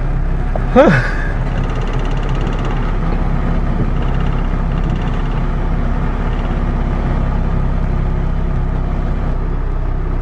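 Car engine running steadily, heard from inside the car. About a second in there is one short, loud sound that sweeps quickly up in pitch.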